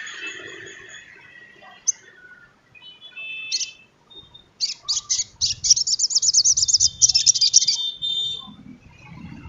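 Sunbird song: a few thin, high notes, then a fast, high-pitched chattering trill of rapidly repeated notes lasting about three seconds.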